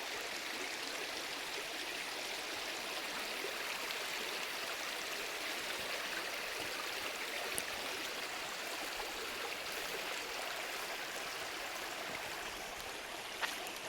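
Stream water running steadily, with a small click about halfway through and a sharper one near the end.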